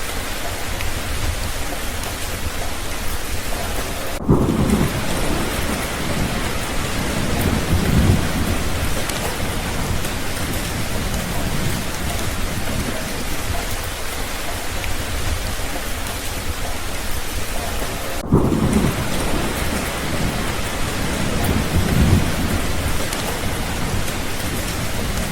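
Steady rain falling, with thunder rumbling twice: once about 4 seconds in and again about 18 seconds in, each rumble swelling again a few seconds later.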